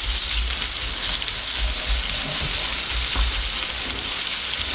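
Sliced abalone frying with diced onion and cream cheese in a pan, a steady sizzle, with a wooden spoon stirring through it.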